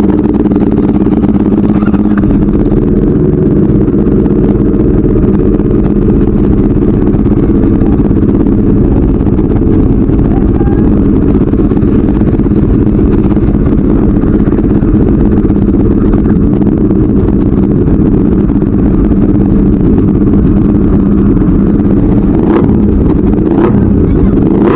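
Motorcycle engine idling steadily close to the microphone, with no revving, while the bike stands still.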